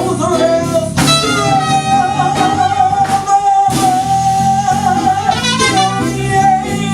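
Live jazz band playing a swing tune over a walking bass line. A lead instrument or voice holds one long note for about four seconds.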